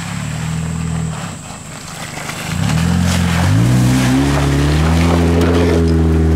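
Modified Chrysler PT Cruiser on oversized mud tyres driving through mud, its engine revving: the pitch climbs in steps about three seconds in, then holds high and steady.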